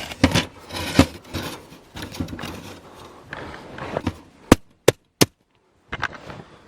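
Irregular knocks and taps over rustling, scraping noise, broken near the end by a moment of dead silence where the sound cuts out.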